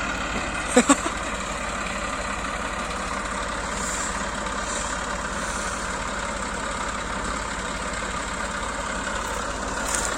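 Farm tractor's diesel engine running steadily, with two sharp knocks in quick succession about a second in.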